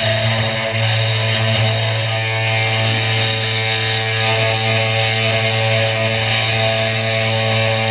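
Small CNC 3018 router's spindle motor running steadily with a constant whine, its cutter milling Finnpappe board with a dense hiss.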